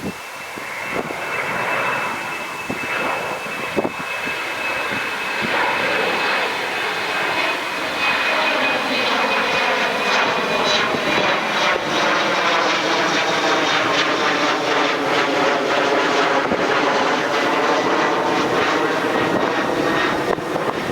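Jet airliner flying past, its engine noise building over the first several seconds and then holding loud. A steady high whine is heard early on, followed by a sweeping, phasing sound as it passes.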